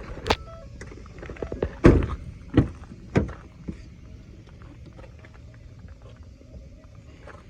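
A few sharp knocks and clunks over a steady low hum, the loudest about two seconds in, with smaller ticks between them; the knocks stop after about three and a half seconds and the hum carries on.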